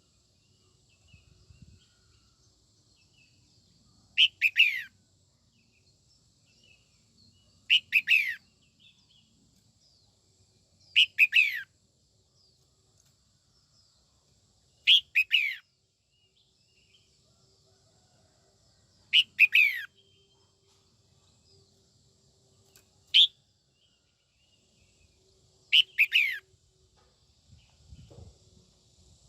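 Female red-whiskered bulbul calling: seven short phrases that fall in pitch, one every three to four seconds.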